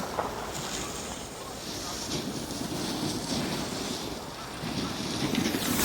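Ski or board edges scraping over packed snow during a run, swelling briefly about two seconds in and again near the end, with wind on the microphone.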